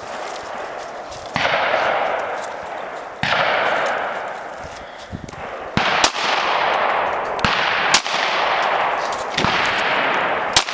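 Springfield Armory XD(M) .40 S&W pistol firing single shots at a steady pace, about six in all, each a sharp crack followed by a long fading wash of sound.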